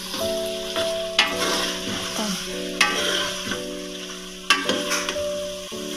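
Raw beef and sliced onions frying in hot oil in an aluminium pot, stirred with a steel spoon: a steady sizzle, with the spoon knocking sharply against the pot three times, about a second in, near the middle and about three-quarters through. The meat has just gone into the fried onions to be seared until it turns white.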